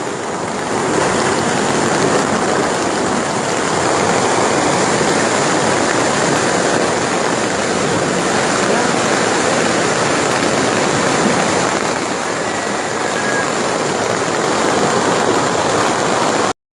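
Heavy rain pouring down: a steady, dense hiss that cuts off suddenly near the end.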